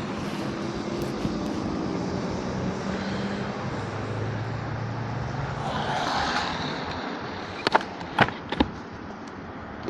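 Street traffic and riding noise heard from a moving electric scooter: a steady rush of road and wind noise with a low vehicle hum in the first half. Three sharp knocks come about three-quarters of the way through.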